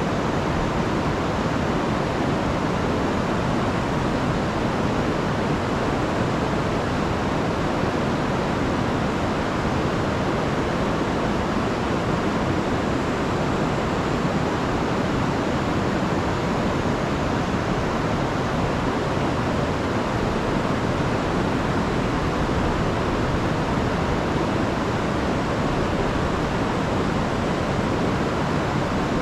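A river in spate after heavy rain, its water rushing and falling over the rocks in one steady, even roar.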